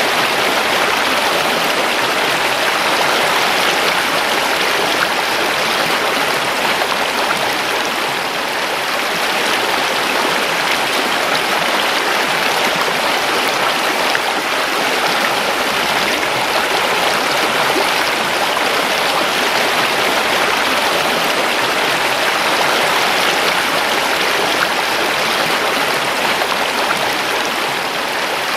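River water flowing and rushing steadily over rocks, a continuous even wash of running water.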